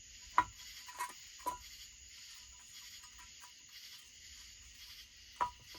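A few short, sharp clicks and taps of metal parts and tools being handled at a workbench during chainsaw work, over a steady background chirping of insects.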